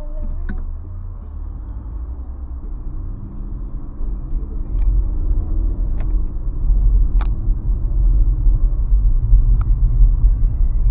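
Low rumble of a 2017 Nissan Rogue on the road, heard from inside the cabin, growing louder from about four seconds in. Several short sharp clicks are scattered through it.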